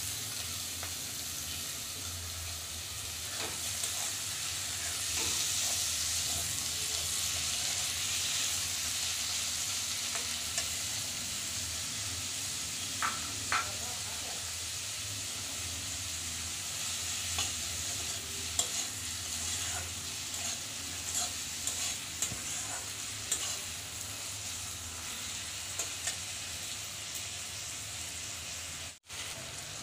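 Chopped tomatoes and onions frying in hot mustard oil in a kadai, with a steady sizzle. A metal spatula stirs and scrapes through them, giving scattered clicks against the pan. The sound breaks off for a moment near the end.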